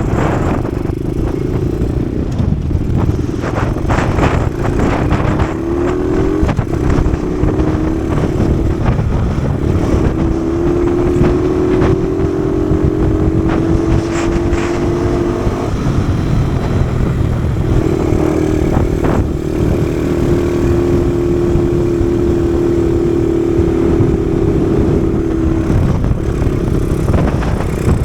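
Kawasaki KSR110's 110 cc single-cylinder four-stroke engine under way, its note climbing and then dropping off several times as the throttle opens and closes, with heavy wind rumbling on the microphone.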